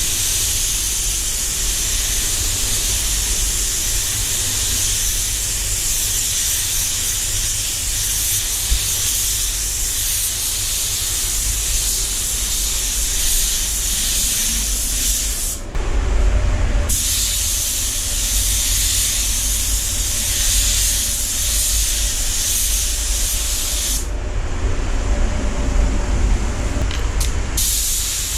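Automotive paint spray gun hissing as it sprays, over a steady low rumble. The spray stops for about a second midway, resumes, then stops again near the end, with a couple of short bursts.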